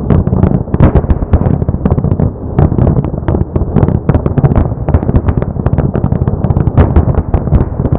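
Fireworks display in a dense barrage: many overlapping bangs and crackles every second over a continuous low rumble.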